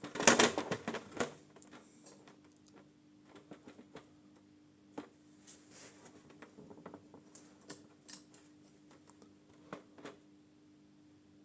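Handling noise as the camera is moved and set down: a loud rustle and scrape in the first second, then scattered light clicks and knocks, over a faint steady hum.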